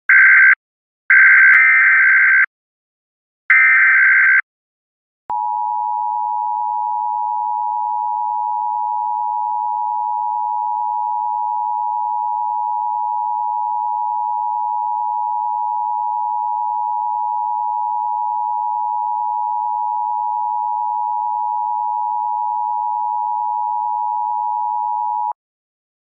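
Three short, harsh electronic buzzer bursts, then a steady, unbroken electronic tone of two close pitches that holds for about twenty seconds and cuts off suddenly, like a telephone line tone.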